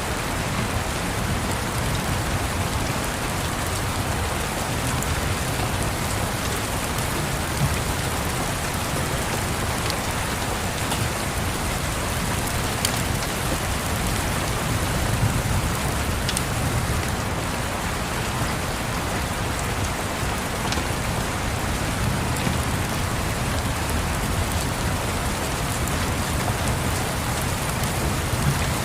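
Steady rain falling, an even hiss with scattered faint ticks of drops, over a low rumble.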